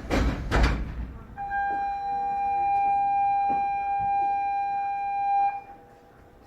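Two heavy thumps, then a single steady electronic tone held for about four seconds before it cuts off suddenly.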